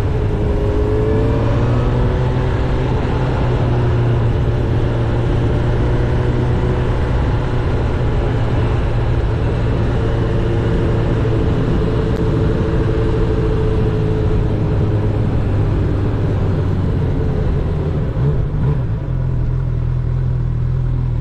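Honda CB1000R's inline-four engine running while the bike is ridden, with wind and road hiss over it; the engine note wavers gently up and down. About 19 seconds in, the hiss drops away and a steadier low engine note is left.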